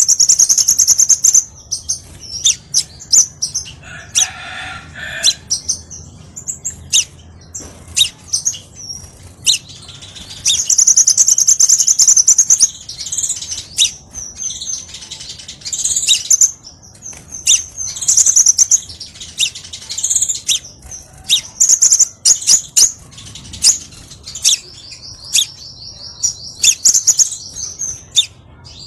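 Crimson sunbird singing: rapid, high-pitched chirps and twittering phrases, with a long fast trill near the end.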